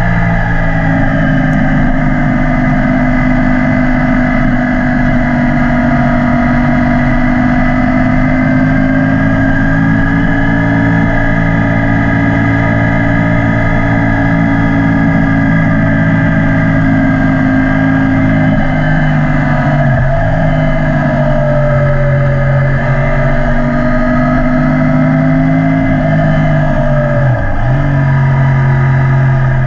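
2012 Yamaha YZF-R1's crossplane inline-four engine running through an Akrapovic exhaust while riding, its note held fairly steady with slow small changes in pitch. About two-thirds of the way through, and again a few seconds later, the pitch dips briefly and comes back up.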